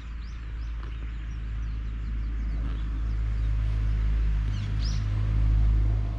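Low vehicle engine rumble, growing louder toward the end, with birds chirping in short repeated calls.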